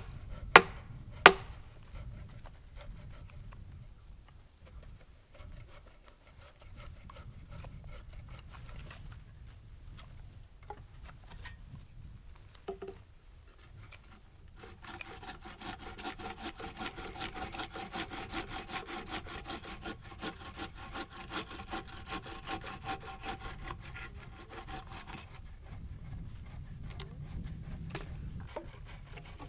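Hand saw cutting through wood, a steady run of quick, even strokes from about halfway in. Two sharp wooden knocks come near the start.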